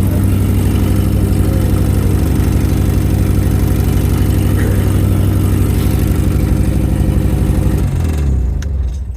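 A 1987 Nissan 200SX S12's engine idling steadily while its mass airflow sensor settings are being tuned. About eight seconds in it is switched off and winds down to a stop.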